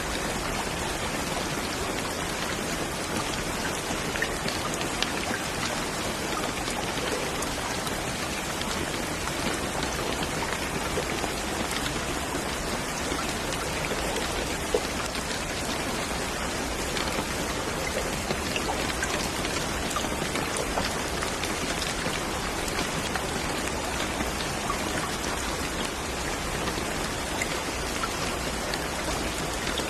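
Steady rain falling on a surface, an even hiss with scattered louder drops ticking through it.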